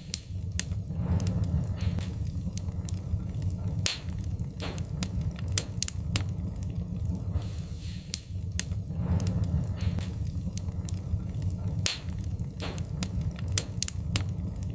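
Wood fire crackling and popping: irregular sharp snaps over a steady low rumble of flames, with a few louder pops.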